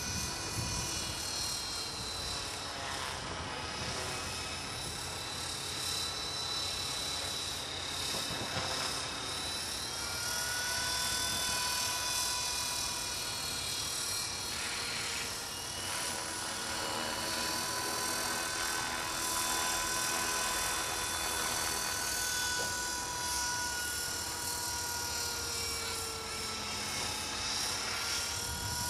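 Trex 450 electric radio-controlled helicopter in flight: a steady whine from the motor and rotors over a rushing buzz, its pitch slowly drifting up and down as it manoeuvres.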